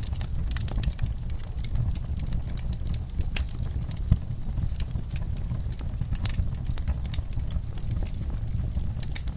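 Wood fire in a fireplace crackling and popping over a low, steady rumble of flames, with one louder pop about four seconds in.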